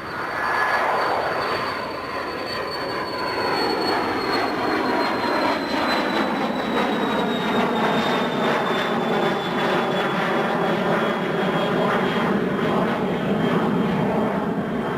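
Jet airliner passing close by, a loud steady engine roar with a high whine that slowly falls in pitch as it goes past.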